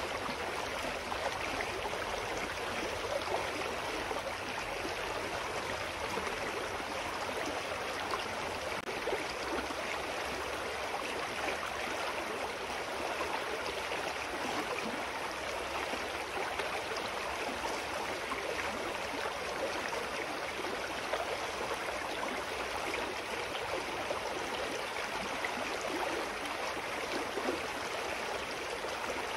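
A clear mountain stream flowing over rocks: a steady, even rush of water with small gurgles and splashes.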